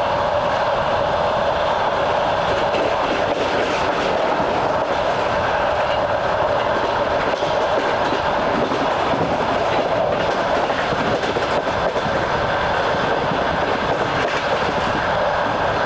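Train wheels running steadily on the rails as heard from aboard a moving train: an even rumble with scattered clicks over the rail joints.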